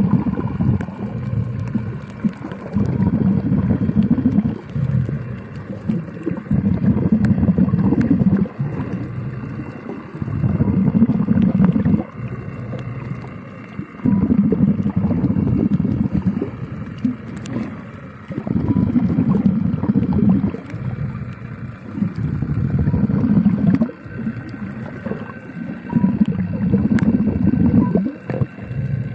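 Rhythmic breathing of a diver or swimmer heard through the water, with a low bubbling rush about every three to four seconds.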